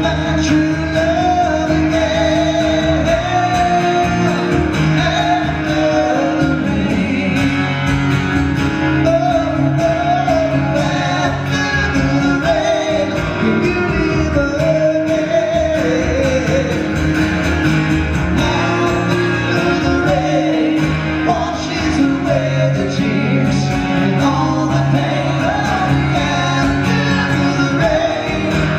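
Live rock band playing a rock song: guitars and drums with singing and a wavering melody line over the top.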